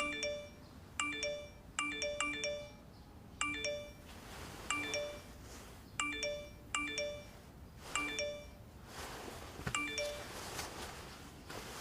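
Soft background music: a light melody of short, bell-like mallet notes, like a glockenspiel or music box, with a faint hiss rising underneath in the second half.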